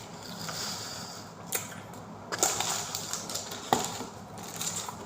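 Close-miked eating sounds: pizza being chewed and crunched, with several sharp clicks.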